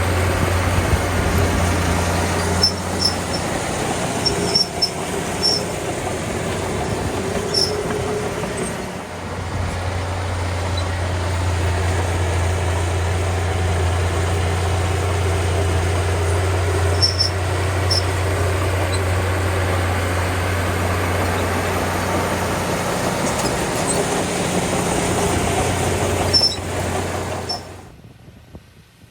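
Small crawler bulldozer's diesel engine running steadily, with a few short high-pitched squeaks. The sound drops away abruptly near the end.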